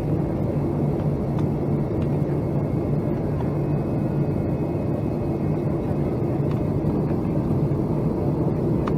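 Steady rumble of engine and airflow noise inside the cabin of a Boeing 757-200 airliner on approach to landing.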